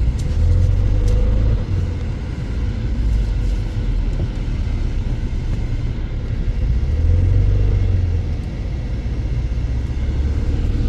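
Low, steady rumble of a car running, swelling twice, with a faint steady tone above it.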